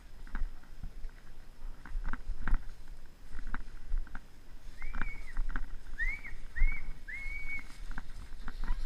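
Four short, high, whistle-like calls, each rising and then held, in the middle of the stretch, among scattered light knocks and rustling.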